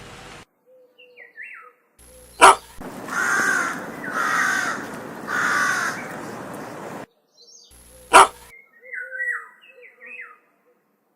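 Crow cawing three times, harsh calls about a second apart, with faint small-bird chirps around them. A sharp click comes just before the caws and another just after.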